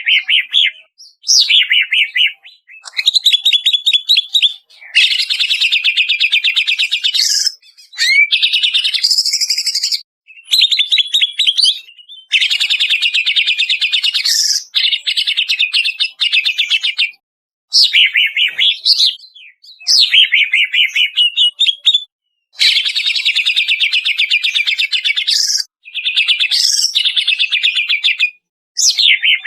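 Greater green leafbird (cucak ijo) singing a string of fast, rattling phrases. Each phrase lasts one to three seconds, with short pauses between them, and a few swooping notes are mixed in.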